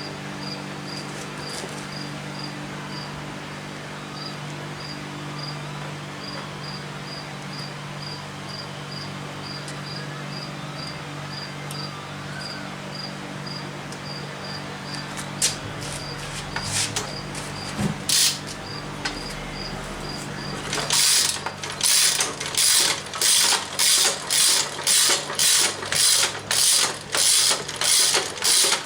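A cricket chirping at an even pace over a steady low hum; from about two-thirds of the way in, a ratchet wrench is worked in loud rhythmic strokes, about two a second, as the engine is bolted back together.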